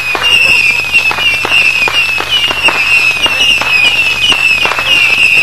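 A barrage of backyard fireworks set off all at once, going off in a rapid run of bangs, several a second, over a continuous, wavering high whistle.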